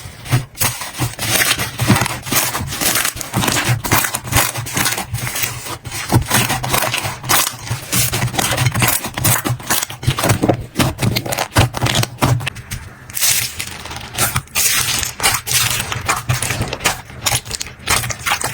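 Slime being squeezed, stretched and pressed by hand, giving a fast, irregular stream of sticky crackles and small pops.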